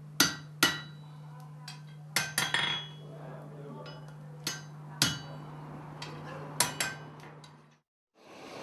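Blacksmith's hammer striking hot metal on an anvil: about eight irregular, ringing blows, several of them in quick pairs, over a steady low hum. The sound cuts off abruptly near the end.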